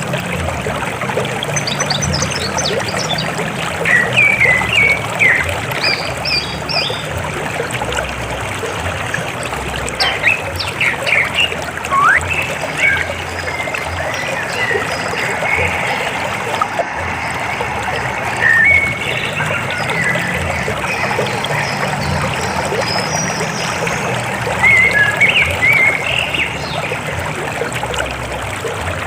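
River water flowing steadily over rocks, with birds chirping now and then above it.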